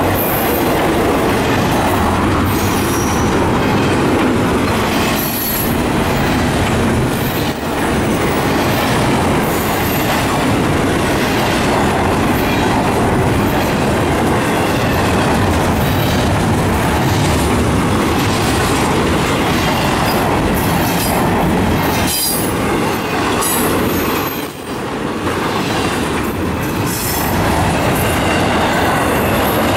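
Norfolk Southern double-stack intermodal freight train rolling past at close range: a loud, steady rumble of steel wheels on rail with repeated clicks as the wheels cross rail joints, and brief high wheel squeals.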